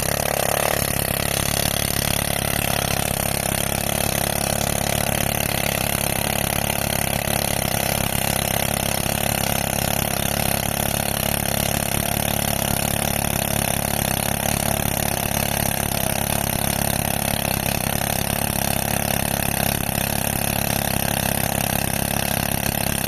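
Pneumatic rock drill, fed by a tractor-driven air compressor, hammering steadily into hard rock over the running tractor engine. There is no break or change throughout.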